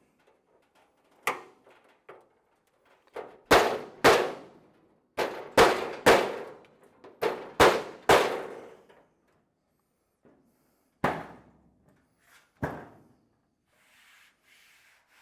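Steel trunk lid of a 1928 Ford Model A being smacked by hand, about a dozen sharp metallic clangs, each with a brief ring. The strikes come in irregular groups and are loudest and most frequent in the middle. The blows spring the lid into more curve to match the quarter panels.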